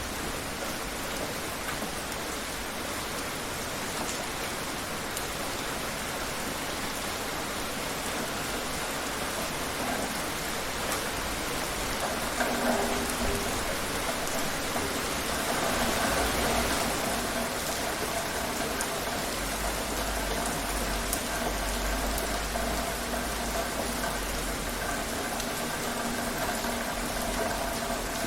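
Steady rain falling, an even hiss of drops on surfaces. From about twelve seconds in, a faint steady hum and a low rumble are mixed in under it.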